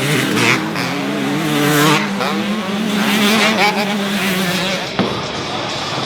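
Vehicle engines running with a steady pitch that shifts about a second and a half in and drops away near the end, with wavering squeals over them.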